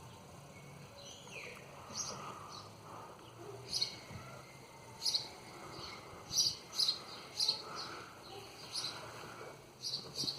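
Small birds chirping: short, high chirps repeated at irregular intervals, more often in the second half.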